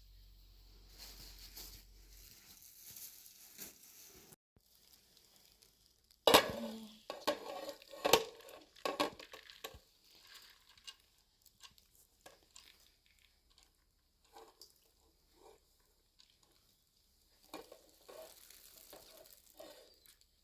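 Cooking in a pan: faint sizzling, then a utensil clattering and scraping loudly against the pot for a few seconds about six seconds in, followed by scattered lighter knocks and stirring.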